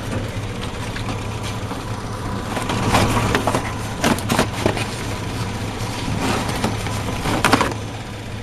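GMC Sierra pickup's six-cylinder engine idling steadily. Over it, several short crinkling, scraping bursts of cardboard being handled and pulled from in front of the radiator.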